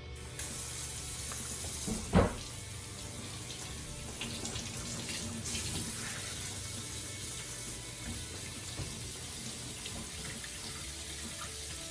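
Kitchen tap running warm water into the sink over a frozen container of turkey stock to thaw it, a steady hiss. One sharp knock comes about two seconds in.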